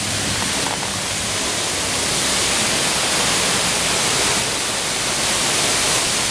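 Extremely heavy rain pouring down, a loud, steady, dense hiss with no let-up.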